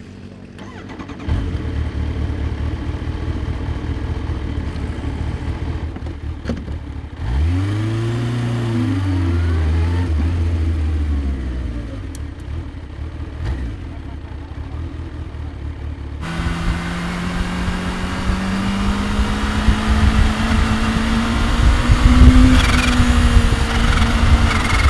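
Kawasaki Ninja H2's supercharged inline-four engine running. It idles, swells up and back down in pitch about seven seconds in, and from about the middle runs louder under way, its pitch climbing slowly and then easing off near the end.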